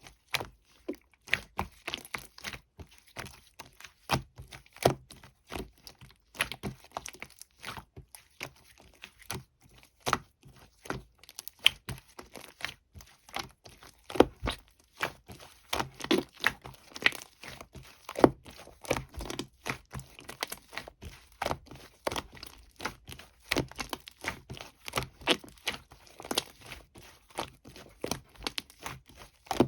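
Two-layer slime being squeezed and stretched by hand, giving a dense, irregular run of sharp crackles and pops.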